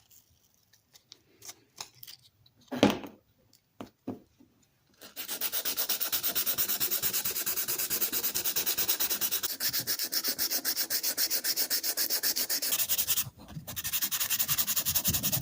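600-grit sandpaper rubbed by hand over a push drill's plastic handle, in fast, even back-and-forth strokes about five a second. The first few seconds hold only light handling clicks and one knock, and the sanding stops for a moment before resuming.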